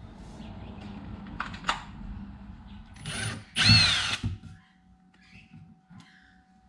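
Electric power drill running: a steady low motor hum for about two seconds, then a louder run with a whine that rises and falls, stopping about four seconds in.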